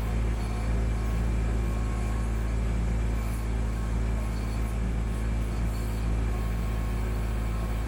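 Kubota B2650 tractor's diesel engine running steadily.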